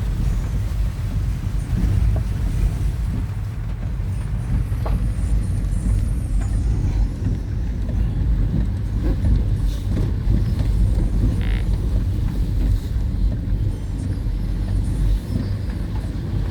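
Steady low rumble of a motor vehicle on the move, its engine and road noise running continuously.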